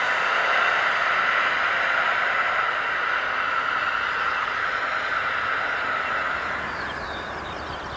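Locomotive-hauled passenger train running away along the track, the steady rumble and hiss of its wheels on the rails fading as it recedes and dropping off clearly near the end.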